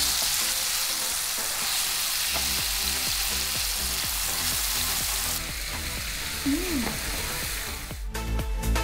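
Ground chili paste sizzling in hot oil in a wok, stirred and scraped with a wooden spatula. Near the end, background music with a steady beat comes in.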